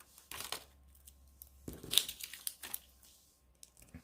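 Paper and plastic backing rustling and crinkling as foam adhesive dimensionals are peeled off their sheet and pressed onto cardstock, in a few short rustles about half a second and two seconds in.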